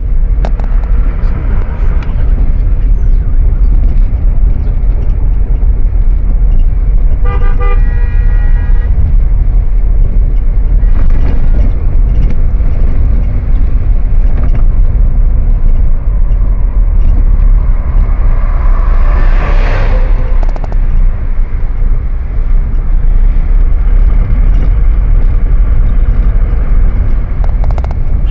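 Road vehicle noise: a steady heavy low rumble, with a vehicle horn sounding for about a second and a half about seven seconds in, and a louder rushing swell that rises and falls around twenty seconds in.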